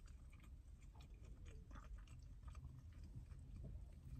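Faint close-up chewing of a mouthful of food, with scattered soft mouth clicks.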